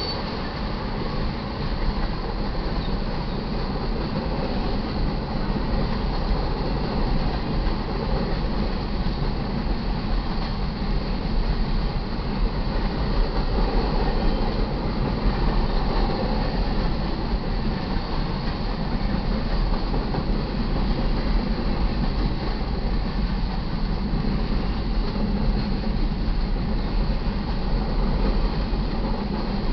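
Freight train cars rolling past on the main track: a steady, loud rumble of steel wheels on rail.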